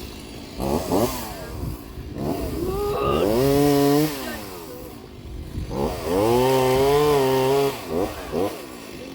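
Chainsaw engine revving up and down. Two longer stretches are held at high speed for about a second or more each, with short blips of throttle before and after.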